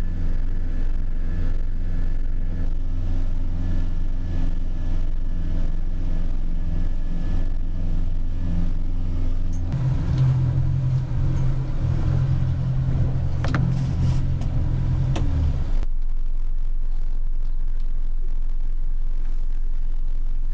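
Boat's outboard engine running steadily underway; its pitch steps up about ten seconds in, and near sixteen seconds the sound switches abruptly to a plainer, steady low hum.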